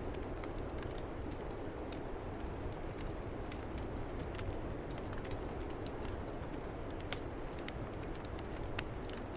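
Wood fire crackling with scattered sharp pops over a steady low rush of snowstorm wind.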